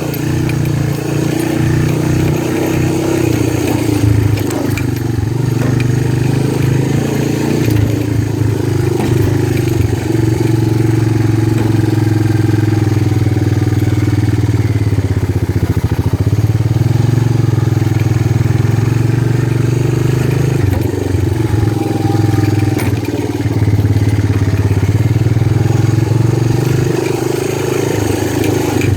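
Motorcycle engine running steadily, its pitch drifting up and down as it is ridden, with brief easings of the throttle a few times.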